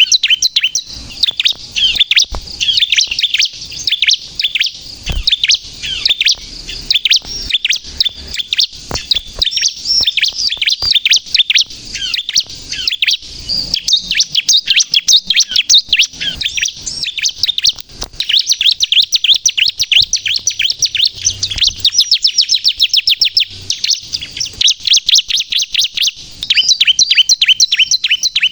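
Bar-winged prinia (ciblek) of the pale kristal variety singing energetically, a fast unbroken run of high, sharp chirping notes.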